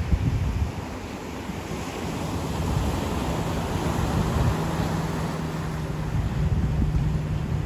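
Ocean surf washing onto a beach, swelling as a wave breaks about two seconds in. Wind buffets the microphone with a low rumble, and a steady low hum runs under it from about two seconds in.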